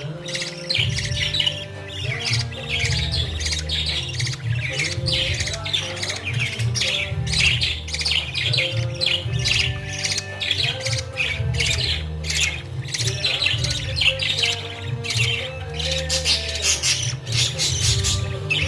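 Budgerigars squawking and chirping in quick, dense runs, in keeping with chicks begging while being fed. A music bed of long held notes plays underneath.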